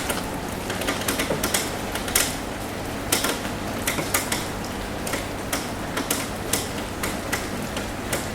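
Rain falling steadily on a roof, with drops tapping it in sharp, irregular ticks, a few a second, over an even hiss.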